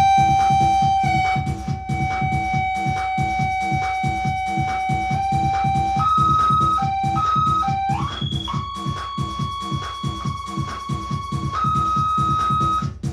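Industrial noise music from a drum machine patched into a no-input mixer: a fast, even distorted beat under a sustained, ringing mixer-feedback tone. The tone jumps between pitches about six seconds in, then settles on a new pitch about two seconds later.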